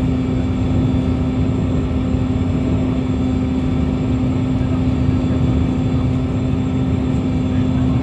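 Gas-turbine engines of the Toppy 2 jetfoil running steadily: a loud, even drone with a strong steady hum over a low rumble.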